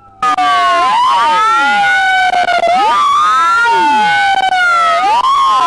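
Police siren on wail, sweeping slowly up and down about every two seconds, with two wailing tones rising and falling against each other. The sound cuts out for a moment right at the start.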